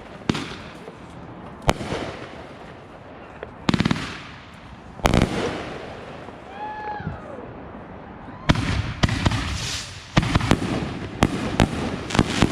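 Backyard consumer fireworks going off: single sharp bangs every second or two, a quick string of cracks about four seconds in, then a dense volley of bangs and crackling from about eight and a half seconds on.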